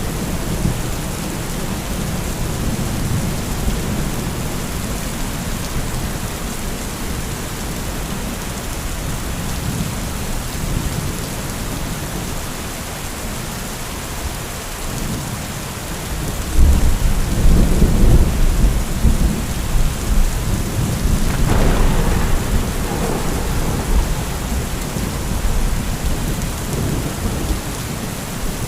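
Heavy rain falling steadily with rolling thunder. About sixteen seconds in, a loud peal of thunder builds, with a sharper crack about five seconds later, and the rumble rolls on and eases off near the end.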